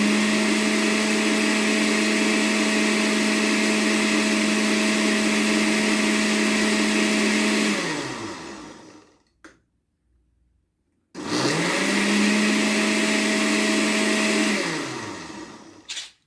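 Electric blender puréeing boiled carrots and pumpkin. It runs steadily for about eight seconds and spins down, then after a short pause is switched on again for about three more seconds before spinning down. A couple of clicks near the end.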